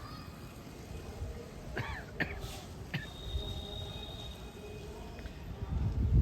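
Outdoor ambience: a few quick bird chirps about two seconds in, a thin high steady tone for a couple of seconds after, and a low rumble that swells near the end.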